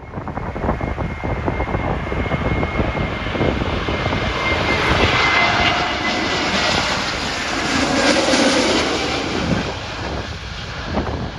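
Airbus A321neo jet engines passing low overhead on approach, a steady high whine that dips slightly in pitch and fades about halfway through as the noise swells. A rough low rumble of strong gusty wind hits the microphone underneath.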